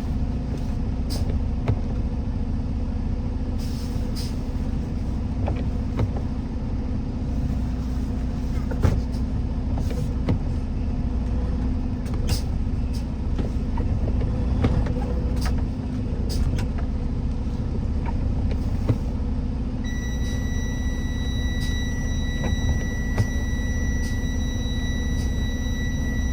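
Vehicle driving on a snow-covered road: a steady engine and road rumble with scattered light knocks and rattles. A steady high tone comes in about twenty seconds in and holds.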